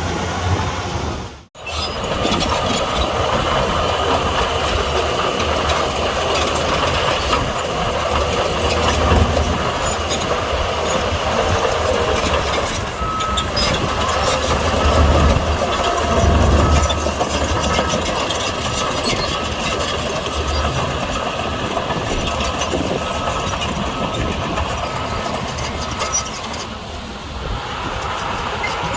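Bulldozer diesel engine running under work, a continuous low rumble with mechanical clatter. The sound cuts out sharply for a moment about a second and a half in. A faint, regular beeping runs through the middle and on until near the end.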